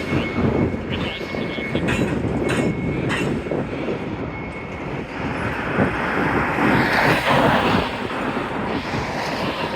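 Freight train rolling through a rail yard: a steady rumble of wheels on rail with sharp clacks at the rail joints and a thin, faint wheel squeal in the first few seconds.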